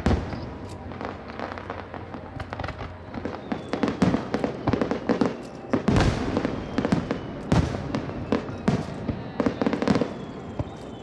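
Fireworks display: shells bursting in a rapid series of booms with crackling between them, the heaviest bangs at the start and about four and six seconds in.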